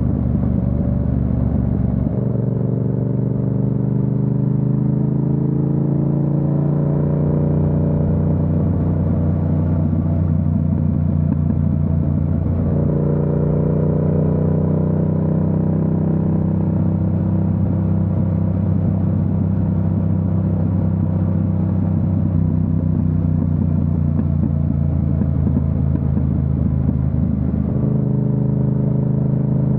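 Yamaha MT-07's parallel-twin engine under way, rising in pitch as the bike accelerates, then dropping sharply at an upshift about twelve seconds in. It climbs again briefly and settles to a steady cruise, changing once more near the end.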